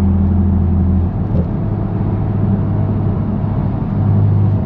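BMW S55 twin-turbo inline-six in a straight-piped F80 M3 Competition, running at low, steady revs through the exhaust, its note dropping a little and going rougher about a second in.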